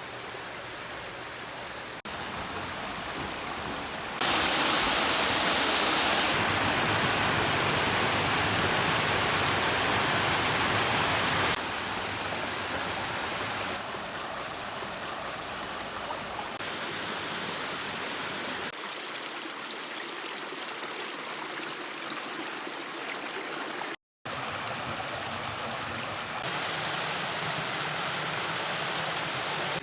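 Rushing water of a creek's cascades and waterfalls, a steady hiss that jumps in loudness several times as the shots cut, loudest about four to twelve seconds in, with a brief dropout near the end.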